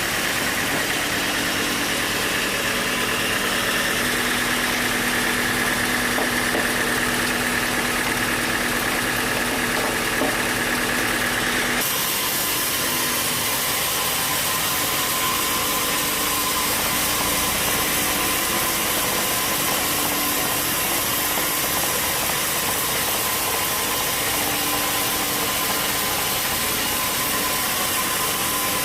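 Sawmill machinery running with a steady engine-like drone and steady tones. The sound changes abruptly about twelve seconds in.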